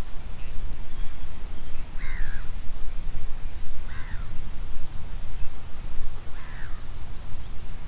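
A crow cawing, short calls each falling in pitch, repeated about every two seconds over a steady low rumble.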